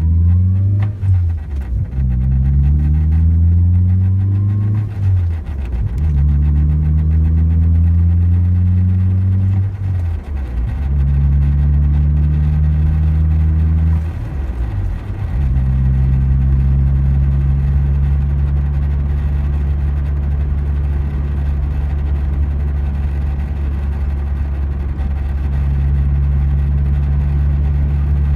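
Toyota MR2 AW11's 1.6-litre 4A-GE twin-cam four, heard from inside the cabin, pulling up through the gears. Its pitch rises in each gear, with a short break at each shift, then holds steady at a cruise from about halfway.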